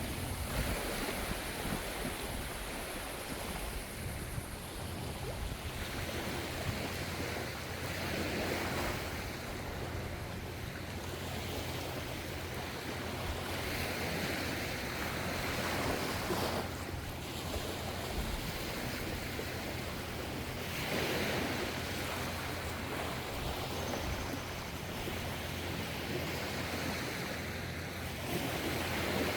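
Gentle ocean waves breaking and washing in over a steady rush of surf, with a wave surging up every few seconds, about five times. A steady low rumble runs underneath.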